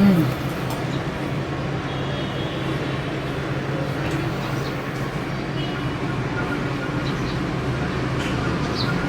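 Steady low background rumble, with a few faint short high chirps over it.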